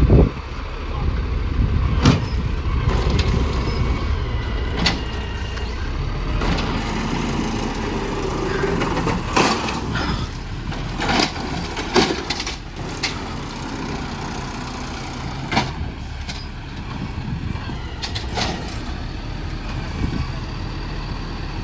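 Refuse truck's diesel engine running steadily, with a series of sharp metallic clanks and knocks scattered through it.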